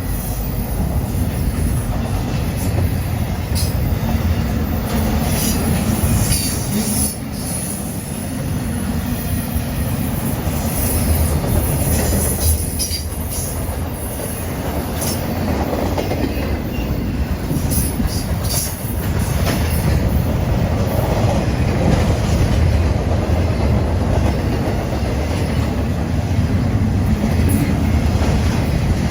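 Norfolk Southern freight train rolling past, a steady heavy rumble of wheels on rail with clanks over the joints and high-pitched wheel squeal at times.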